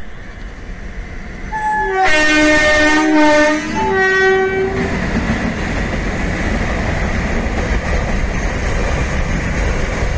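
Indian Railways electric locomotive sounding its multi-tone horn in two blasts, a long one then a shorter one, as it approaches. The horn gives way to the steady rumble of the loaded container wagons rolling past.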